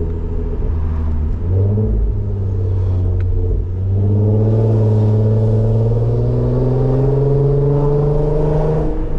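Car engine pulling under acceleration. Its note shifts a couple of times in the first few seconds, then climbs slowly and steadily for about five seconds before breaking off near the end.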